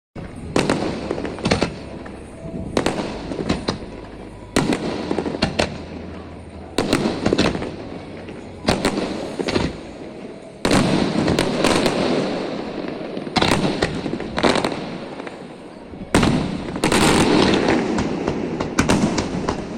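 Fireworks exploding: sharp bangs every one to three seconds, each trailing off in echo and crackle, with denser clusters of bangs around the middle and near the end.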